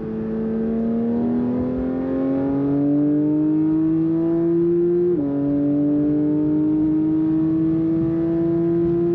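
Porsche 992 GT3's 4.0-litre naturally aspirated flat-six under acceleration, its note climbing steadily in pitch. About five seconds in a quick upshift drops the pitch, and it climbs again more slowly.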